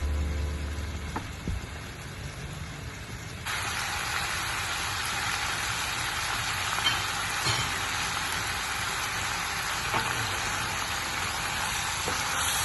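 Lemon-butter caper sauce simmering and sizzling in a frying pan. It makes a steady hiss that turns suddenly louder about a third of the way in, with a few light clicks of a utensil against the pan.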